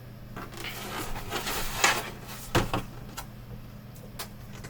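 Plastic monitor housing being handled: a rubbing, sliding noise for about two seconds, then a knock about two and a half seconds in and a few light clicks.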